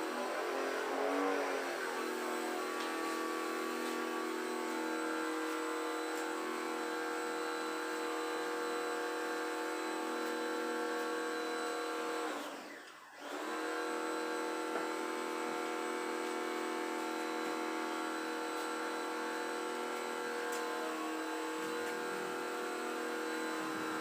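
A small motor running steadily at one pitch, with a brief dip in level about halfway through before it picks up again.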